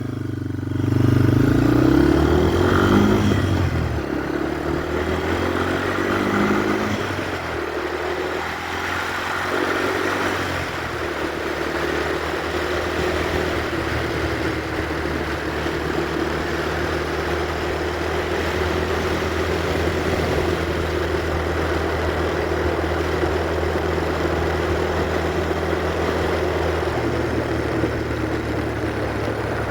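Yamaha TW200's single-cylinder engine riding on the road, rising in pitch through a few gear changes in the first ten seconds or so, then running at a steady cruising speed under a steady rush of wind noise.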